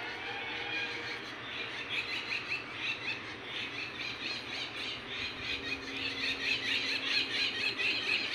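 Birds chirping in a busy chorus of quick, high-pitched calls, growing louder and denser over the second half, over a low steady rumble.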